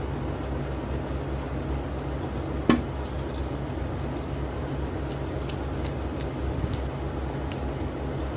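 Someone eating singaras (fried pastries) over a steady low background hum, with one sharp knock about three seconds in and faint crunchy clicks of chewing later.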